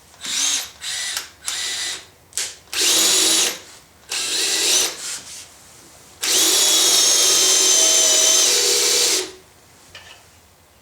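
Power drill run in a series of short trigger bursts, then held for one long run of about three seconds, its whine steady once up to speed.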